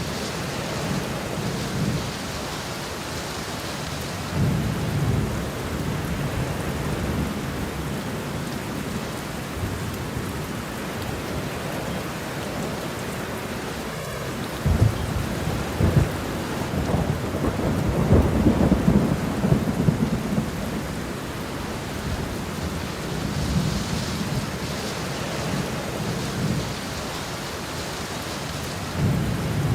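Steady rain with thunder rumbling low every few seconds; about halfway two sharp cracks of thunder come close together, followed by a longer, louder roll of thunder.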